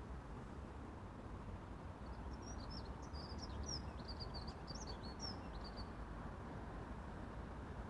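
A small bird twittering, a quick run of short high chirps from about two to six seconds in, over a faint steady low rumble.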